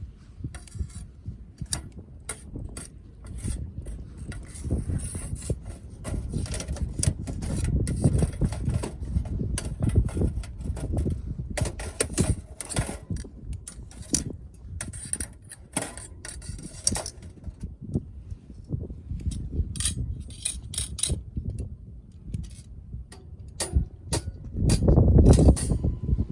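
Wood fire crackling with many sharp, irregular pops, over a low rumble of wind buffeting the microphone that swells near the end.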